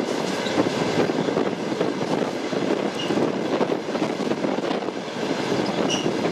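Steady rumble of a moving train, its wheels running on the rails. A couple of brief high squeaks come about halfway through and near the end.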